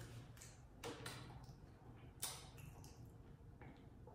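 Near silence with a few faint soft clicks, scattered and irregular, from chewing food with the mouth closed.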